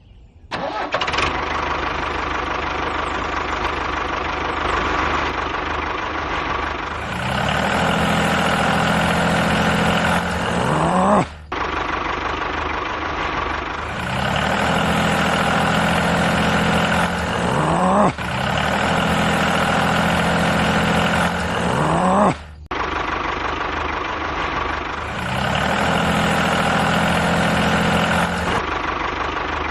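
Engine running steadily, starting about half a second in; three times its pitch rises and it cuts off abruptly, then carries on running.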